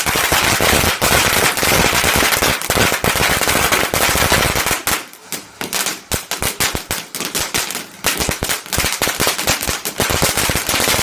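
Fireworks going off in rapid succession: a dense, continuous crackle of bangs for about five seconds, then a quicker series of separate sharp pops and bangs.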